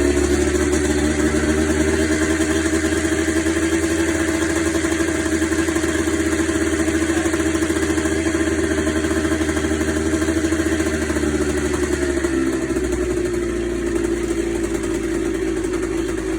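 Kawasaki KX125 two-stroke single-cylinder engine idling steadily, its pitch dropping slightly about twelve seconds in.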